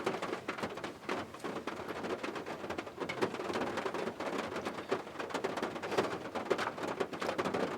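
Rain falling, a steady dense patter of drops.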